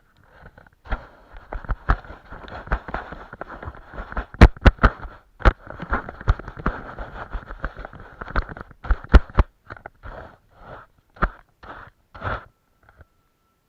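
A paintbrush scrubbing and dabbing on a large canvas, with irregular sharp taps and knocks. The loudest knocks come about four and a half seconds in and around nine seconds, and the brushing stops near the end.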